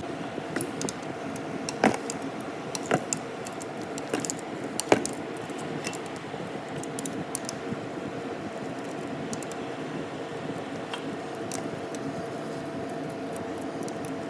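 Metal tools and engine parts clinking and knocking as they are handled. A few sharper strikes come in the first five seconds, and a steady low hum runs underneath.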